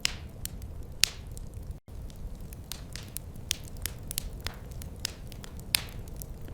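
Wood fire crackling: irregular sharp pops and snaps, a few of them louder, over a steady low rumble of the burning fire. The sound drops out for a split second about two seconds in.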